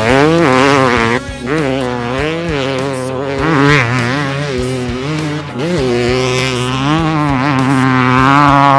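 Dirt bike engine revving up and down while being ridden, its pitch rising and falling every second or two with brief dips in throttle.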